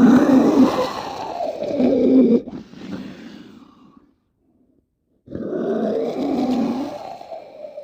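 Movie monster growl sound effect: a deep, rough growl that cuts off about two and a half seconds in and trails away, then a second growl starting about five seconds in.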